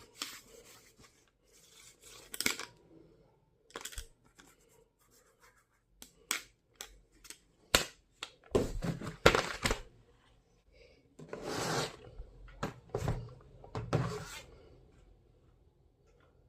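Stationery items and their packaging being handled: scattered clicks and taps with several short bursts of rustling or tearing, the longest about twelve seconds in.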